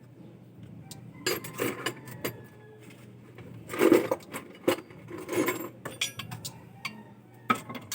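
Metal hand tools clinking and clattering in a series of sharp knocks and rattles, loudest about four and five and a half seconds in, over a faint steady low hum.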